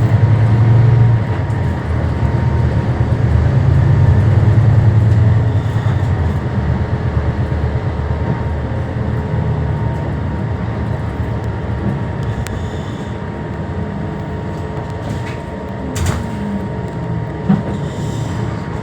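Scania K320 bus heard from inside the cabin, its engine pulling under load with a deep drone for the first six seconds or so, then easing off as the bus rolls on with steady road noise. Two short knocks come near the end.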